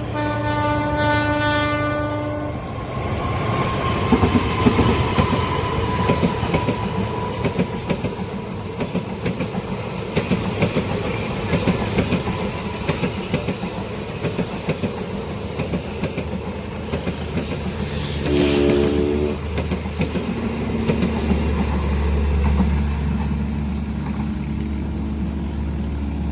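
Train horn sounding for about two and a half seconds, then wheels clattering over the rail joints as a long train passes. A second short horn blast comes about eighteen seconds in, and a steady low rumble near the end.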